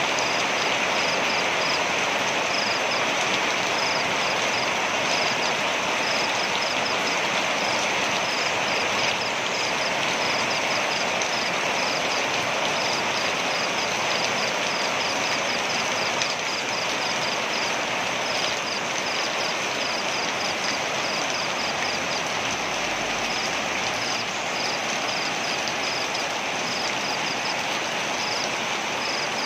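Waterfall rushing steadily, with a high chirping repeated in quick runs above it.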